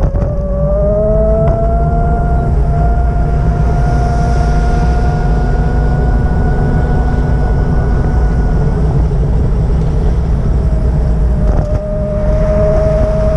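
A motor vehicle running under way: a loud, steady low rumble with an engine whine that climbs slowly in pitch. About 12 s in there is a brief break, after which the whine comes back lower and climbs again, as if the vehicle has changed gear while accelerating.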